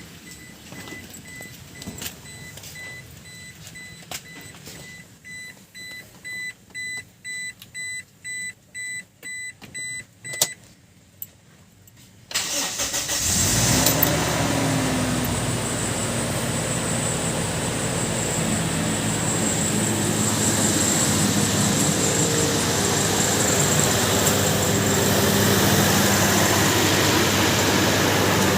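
A run of short high electronic beeps, then a Toyota engine turns over and starts about twelve seconds in, settling into a steady idle. The no-crank, no-start fault appears cured.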